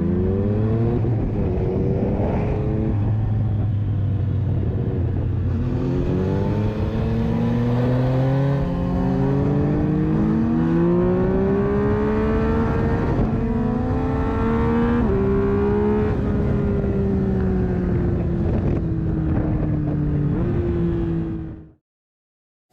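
Yamaha 847 cc inline-three motorcycle engine with an Akrapovič exhaust, heard while riding, under wind noise. The engine pulls with rising pitch, drops sharply twice at upshifts, then falls slowly as it rolls off, and the sound cuts off suddenly near the end.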